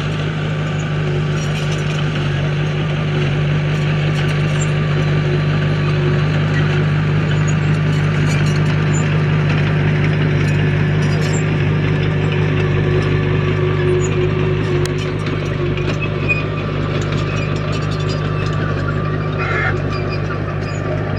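Heavy earthmoving machine's diesel engine running steadily, with scattered light clicks and clatter over it.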